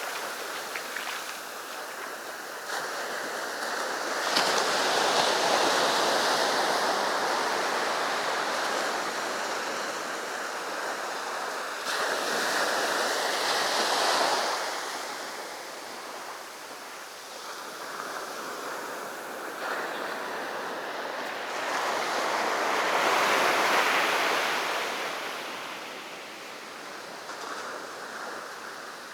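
Sea surf: waves breaking and washing up the beach, the rush of water swelling loud three times and easing off in between.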